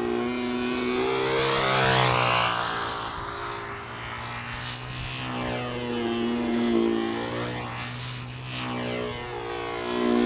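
Control-line model aircraft engine running steadily at high speed. The sound swells and fades about every four seconds as the plane circles past on its lines.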